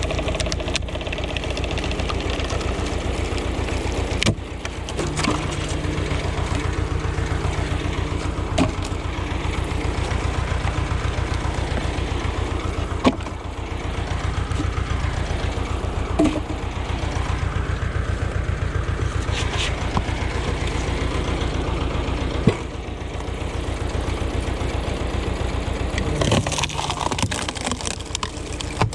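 Ursus tractor engine running steadily with a fast, even beat while it drives wood splitting. About six sharp cracks come at irregular intervals a few seconds apart, from the wood being split.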